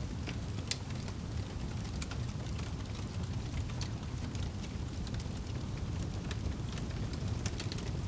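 Wood fire crackling: scattered sharp pops and snaps at irregular intervals over a steady low rumble of the burning fire.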